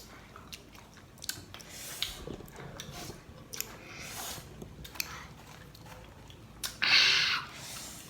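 A person biting and chewing firm, sour Marian plum fruit with chillies, wet mouth sounds and small crunches. Near the end there is a louder rushing noise lasting about half a second.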